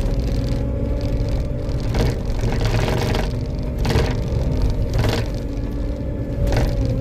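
Skid steer engine running steadily with a constant whine, broken by several knocks and rattles.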